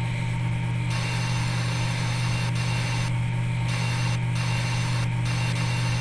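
Simulated CNC milling machine running: a steady low spindle hum with a higher hiss over it that drops out briefly several times.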